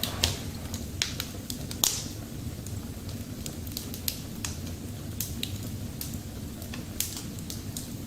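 Wood fire crackling in a wood-burning stove just after top-down lighting, with irregular sharp pops over a steady low rumble of the flames. The stove door is left ajar and the air controls are fully open, so the kindling burns freely.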